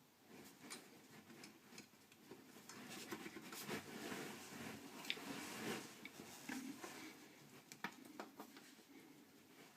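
Faint scattered clicks and scraping handling noise, busiest in the middle.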